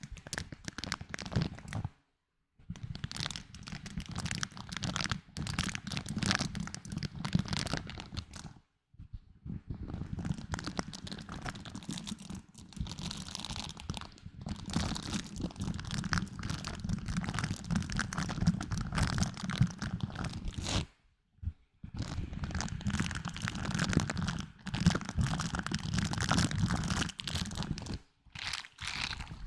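Close-miked ASMR trigger sounds: dense crinkling and crackling from an object being handled and squeezed, in several stretches broken by brief silent cuts.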